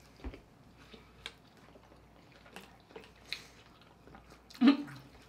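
Quiet eating sounds from someone chewing a mouthful of mac and cheese: a few small mouth and utensil clicks scattered through, and a brief voiced sound near the end.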